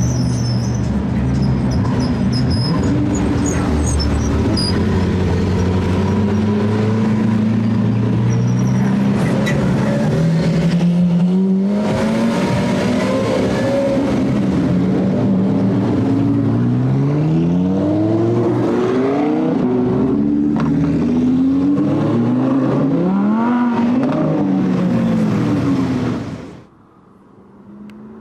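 Sports car exhaust, loud, with the engine revved up and down over and over in repeated rising and falling blips. It cuts off sharply near the end.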